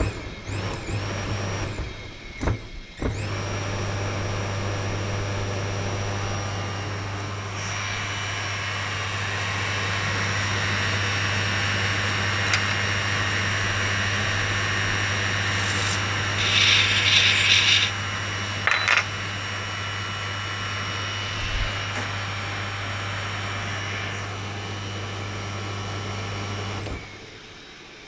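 Two-speed capacitor-run washing machine induction motor switched on and spinning up with a steady low hum and whine. It cuts out briefly twice in the first few seconds, then runs steadily until it is switched off about a second before the end. A short higher-pitched hiss comes about two-thirds of the way through.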